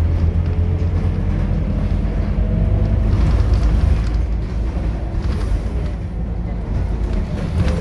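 Scania K230UB city bus's diesel engine running under way, a steady low drone with a faint whine that rises in pitch over the first few seconds.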